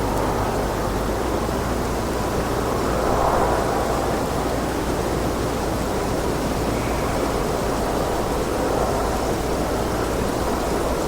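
Wind blowing steadily, a rushing noise with a low rumble beneath that swells a little about three seconds in and eases again.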